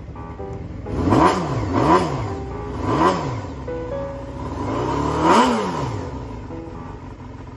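Honda Jade 250's four-cylinder engine revved in four quick throttle blips, the last one longer. Each blip rises sharply in pitch and falls back. Background guitar music plays throughout.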